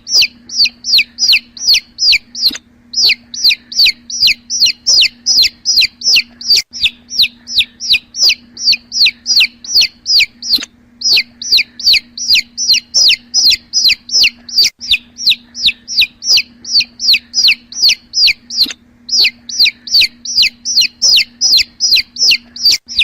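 Young chicks peeping: a steady run of high calls, each falling in pitch, about three a second, with a few short breaks. A low steady hum runs underneath.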